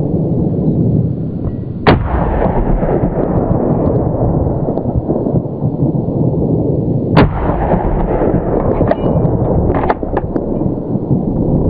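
Gunshots from a boar hunt: a loud shot about two seconds in, another about five seconds later, and a few quicker cracks near the end, over a steady loud rumbling noise.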